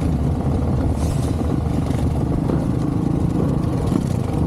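Dirt bike engine running at a fairly steady pitch.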